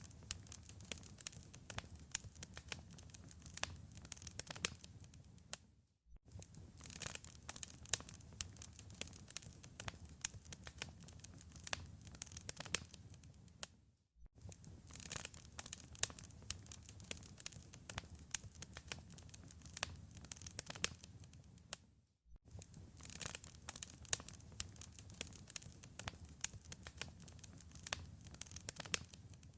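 Wood fire crackling, with many sharp pops and snaps over a low rustle. It drops out to silence for a split second about every eight seconds.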